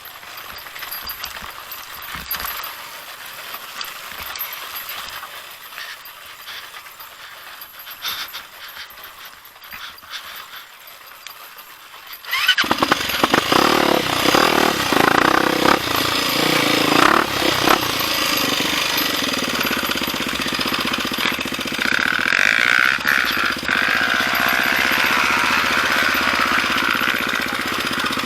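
Dirt bike engine, likely a Honda XR250 Tornado single-cylinder four-stroke: quiet at first under hiss and rustling, then about twelve seconds in the engine comes in loud and sudden, revving up and down before settling to a steady run.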